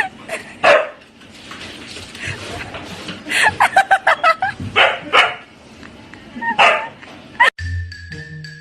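A dog barking in separate sharp barks, with a quick run of short yips about three to four seconds in. Near the end the sound cuts off abruptly and light marimba-like music starts.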